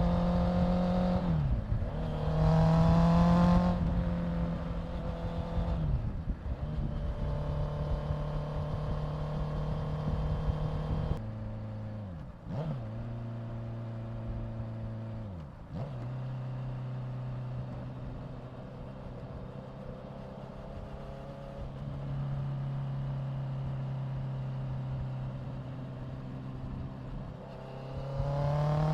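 Honda CBR650F's inline-four engine running under way at steady throttle. Its pitch drops briefly several times, runs lower and quieter through the middle, then rises as it accelerates near the end.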